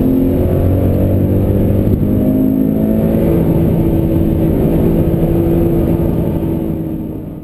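Toyota 86 sports car's engine pulling under acceleration, heard from inside the cabin, its pitch climbing slowly. The sound fades out near the end.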